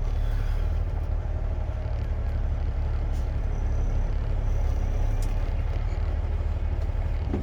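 Truck running with a steady low rumble, the engine and road drone of a car hauler under way.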